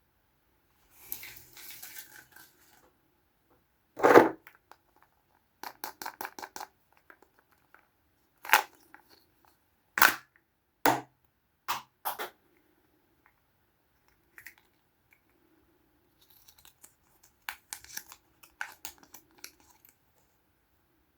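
Small plastic toys and their packaging being handled at close range: a series of sharp plastic clicks and knocks, several of them loud, with softer crinkling and rustling near the start and again near the end.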